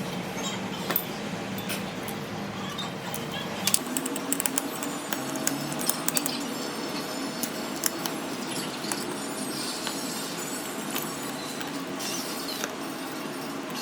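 Small, sharp clicks and light clinks of hard objects tapping together, scattered irregularly over a steady background hum, growing more frequent after the first few seconds.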